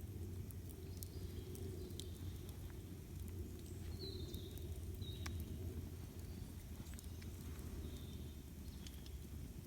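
Campfire burning, with scattered sharp crackles and pops over a steady low rumble. A few short, high bird chirps come through in the second half.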